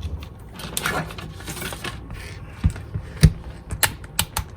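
Scattered small clicks and taps from handling tools and parts on a repair bench, with two duller knocks a little before and after three seconds in, over a low steady hum.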